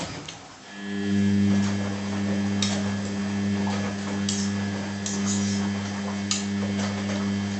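Washing machine starting a steady electric hum about a second in, with a few short hissing sounds over it.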